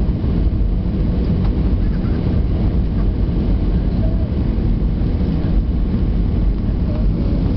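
Steady low rumble of an Airbus A320-200's engines and airframe, heard from inside the passenger cabin.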